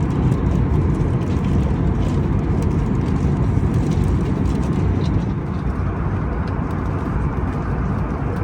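Steady rumble of airflow and engines inside the cabin of an Airbus A321neo in flight, easing slightly about five seconds in.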